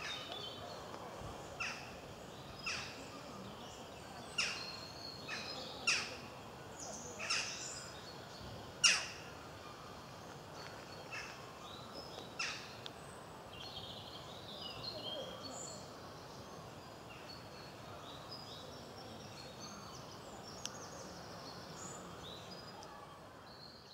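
A woodpecker giving short, sharp single call notes, about a dozen of them irregularly spaced over the first half, with fainter twittering of small songbirds later on.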